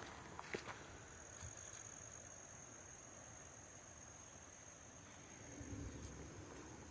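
Faint, steady high-pitched insect trill that holds one even tone, with a few faint clicks.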